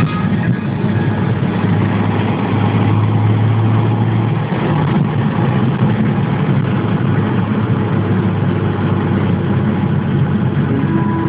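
Dodge Stealth's twin-turbo 3.0-litre V6 running steadily, a low hum over a rushing noise, briefly stronger around three to four seconds in.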